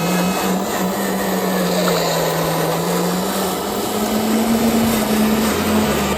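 Small electric motor and gears of a remote-control miniature truck running steadily, a buzzing hum that steps up slightly in pitch about four seconds in.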